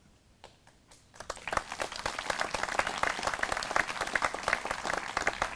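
Audience applause: a short pause, then many people clapping, starting about a second in and going on steadily.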